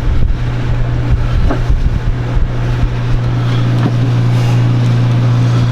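Boat air-conditioning raw-water pump running with a steady low hum. A few light knocks of handling come in the first couple of seconds.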